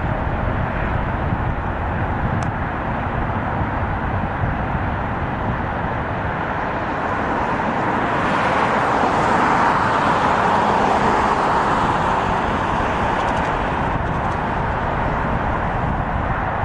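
Container freight train rolling past with a steady, rushing rumble that grows louder about eight seconds in and eases off again toward the end.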